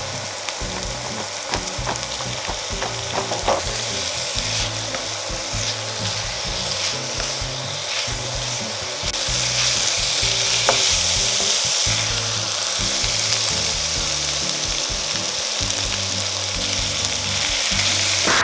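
Salted squid, flaked skipjack tuna and chillies sizzling in a stainless steel wok while a wooden spatula stirs and scrapes them, with a few light clicks of the spatula against the pan. The sizzle grows louder about halfway through.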